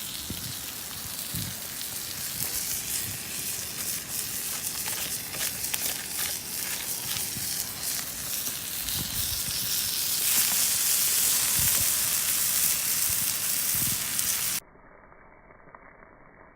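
A thick steak sizzling in a frying pan over an open wood fire, with crackling; the sizzle grows louder about ten seconds in. Near the end it cuts off suddenly to a much quieter, muffled background.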